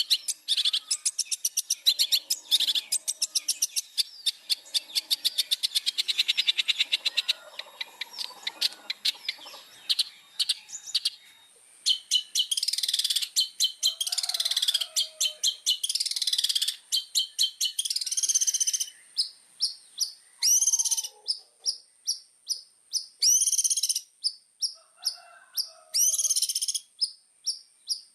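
Long-tailed shrike (cendet) singing in full voice: a fast run of rapid chattering notes for about ten seconds, then a series of loud, scratchy phrases with falling notes, separated by rows of short clipped notes.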